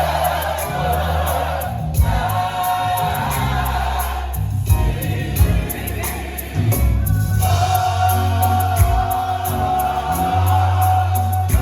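Gospel choir singing in harmony over a live band, with held bass notes and drum hits.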